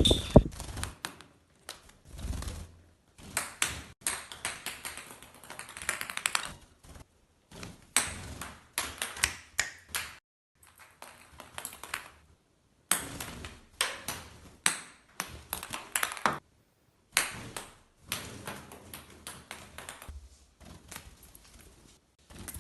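A pet bird playing with a small toy ball: irregular runs of quick clicks and taps, broken by short pauses.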